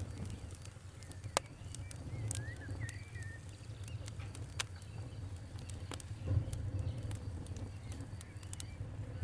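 Wood fire crackling, with irregular sharp pops and snaps over a low steady rumble of flame.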